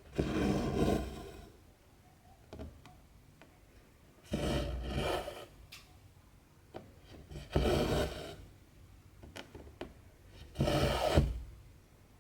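Two-strand cotton embroidery thread drawn through 14-count cross-stitch fabric: four pulls, each a scratchy swish about a second long, coming about three seconds apart.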